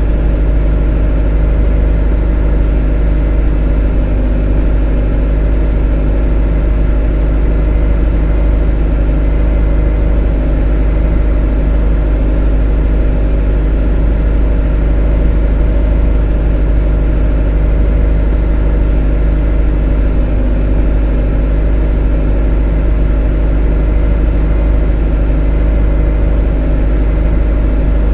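A motor running steadily at constant speed: a deep, even drone with a stack of steady hum tones above it that never change.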